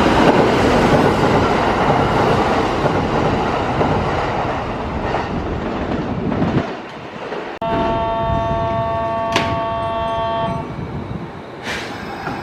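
A Kintetsu electric train running past with loud rail and wheel noise, which fades out about six and a half seconds in. Then a train horn sounds one steady, many-toned blast for about three seconds. A few sharp clicks come near the end.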